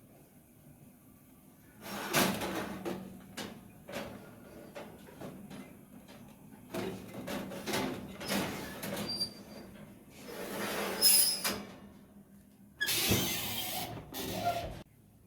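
Intermittent handling noises: short bursts of scraping or rustling about a second long, with a few sharp knocks and quiet gaps between them.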